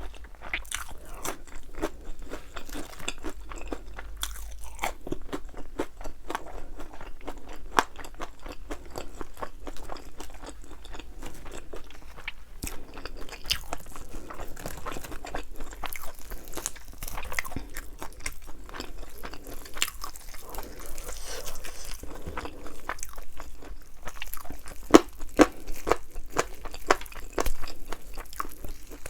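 Close-miked crunching and chewing of thin, crispy-coated fried chicken wings, with many irregular crackly bites.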